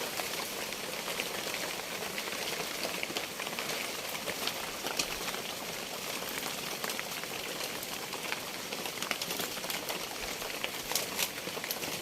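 Steady rain: an even hiss of falling water with many scattered sharp drops and drips.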